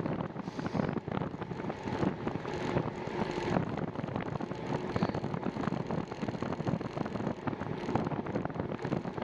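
Wind buffeting the microphone of a bicycle-mounted camera while riding, a steady rush with many small knocks and rattles from the ride.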